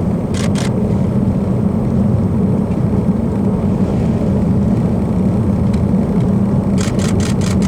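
Steady low road and engine rumble inside a moving vehicle's cabin. A couple of sharp clicks come about half a second in, and a quick run of clicks about a second before the end.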